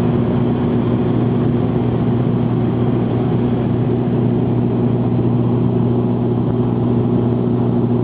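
Aircraft engine drone, steady and unchanging, with a low hum and a couple of its overtones over an even rush.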